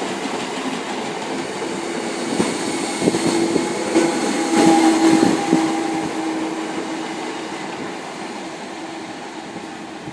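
Greater Anglia electric multiple unit running past along the platform: a steady hum with a few wheel clicks over rail joints, loudest about halfway through and then fading as the train moves away.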